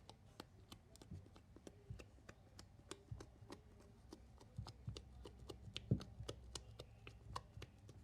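Irregular light clicks and taps, several a second, from small objects being handled by hand, with one sharper click about six seconds in.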